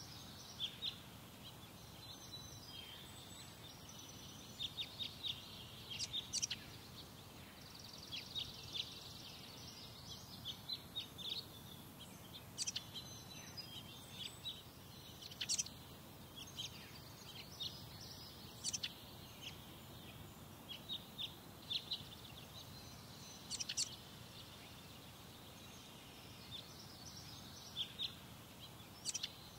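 Birds chirping outdoors: many short, high chirps and call notes in scattered clusters, over faint steady background noise.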